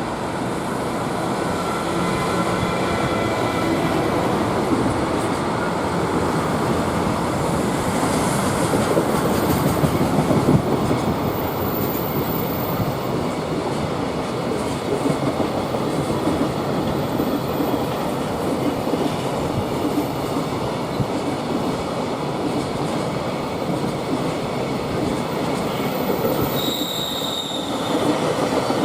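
Electric-locomotive-hauled container freight train passing close by: a steady rumble of wagon wheels on the rails with clickety-clack, loudest about ten seconds in. A brief high squeal comes near the end.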